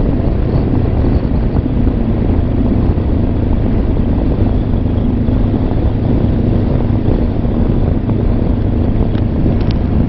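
Honda CB500X parallel-twin engine running steadily under way, mixed with a heavy low wind rumble, heard through a microphone inside the rider's helmet.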